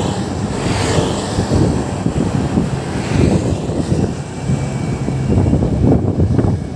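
Low, uneven rumbling of outdoor road noise with wind on the microphone.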